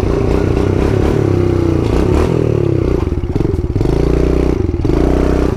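Kawasaki KLX110 pit bike's single-cylinder four-stroke engine revving up and down under throttle while ridden up a short hill, the revs dropping about two seconds in and climbing again near four seconds.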